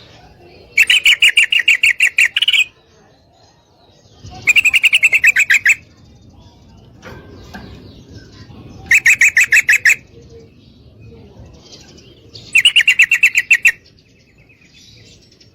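Female yellow-vented bulbul giving a rapid chattering call. It comes in four bursts of quick repeated notes, each a second or two long, a few seconds apart.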